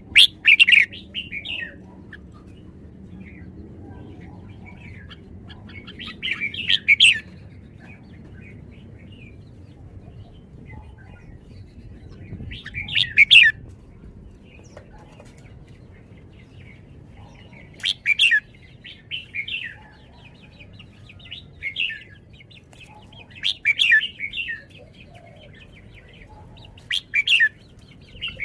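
Red-whiskered bulbul singing short, bright, chattering phrases roughly every three to six seconds, with pauses between them.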